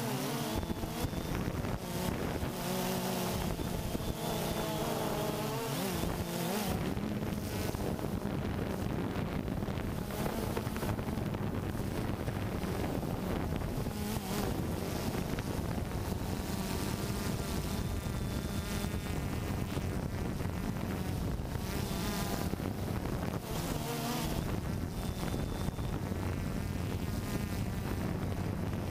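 Quadcopter drone's electric motors and propellers buzzing steadily, with wind on the microphone; the pitch wavers up and down at times as the motors change speed.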